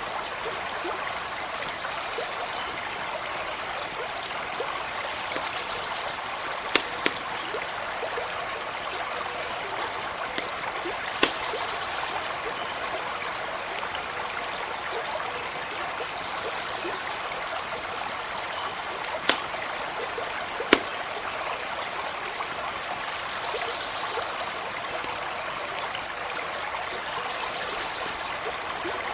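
Stream running steadily, with a handful of sharp pops from a wood campfire crackling beside it.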